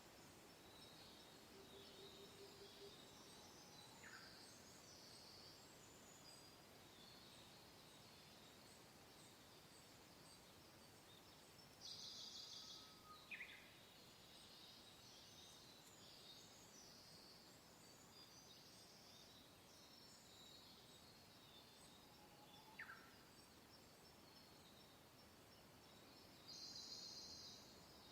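Faint soft wind hiss with scattered distant birdsong: thin high chirps throughout, two louder high calls of about a second each, about twelve seconds in and near the end, and three short falling whistles.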